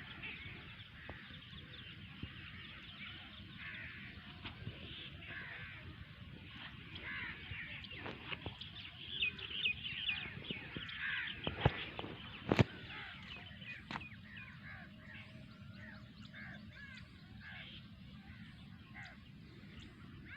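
Many birds calling and chirping in overlapping short trills, with two sharp knocks about a second apart a little past halfway.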